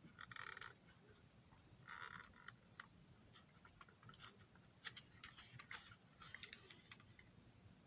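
Near silence with faint scattered clicks and a few brief, soft scratching rustles, like small parts being handled.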